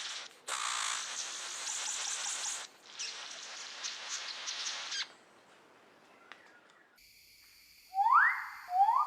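A steady hiss, broken by sudden brief gaps, stops about five seconds in. Near the end a bird gives two loud calls, each a quick rise in pitch lasting under half a second.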